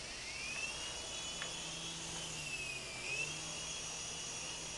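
Small RC helicopter's motor and rotors spinning up into a high whine, rising at the start, then steady, with a brief dip in pitch and recovery near the middle as the throttle is eased and opened.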